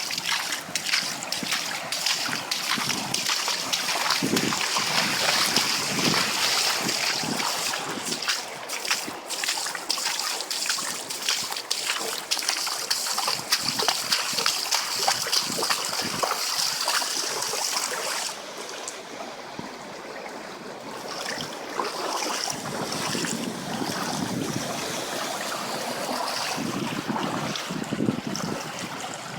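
Floodwater splashing and rushing, with many short splashes, turning quieter and lower about two-thirds of the way through.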